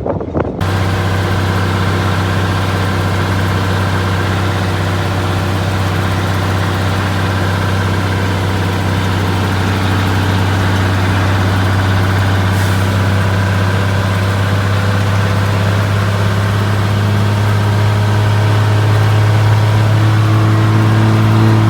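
Truck engine running steadily with a low, even drone, growing a little louder and higher in pitch near the end.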